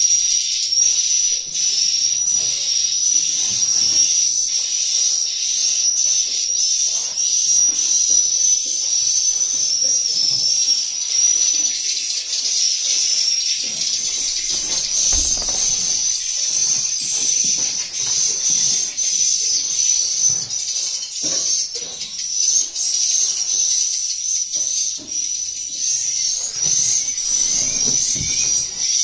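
Swiftlets chirping as a dense, continuous high twittering, with many short clicks among the calls.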